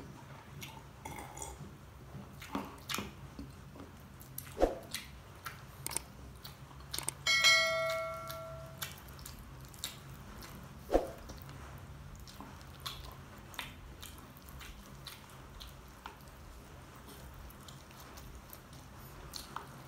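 Close-miked eating sounds: chewing and mouth smacks on saucy fried shrimp, heard as scattered soft clicks. A short ringing chime sounds once about seven seconds in, and there are a couple of dull knocks.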